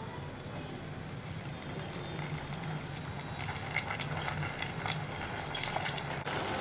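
Ground masala paste sizzling in oil in a steel pan on a low flame, the fine crackling getting busier from about halfway through, over a low steady hum.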